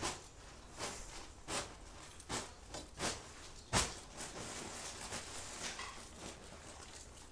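Crunchy snack being chewed close to the microphone, a short crunch about every three-quarters of a second for the first four seconds, then fainter.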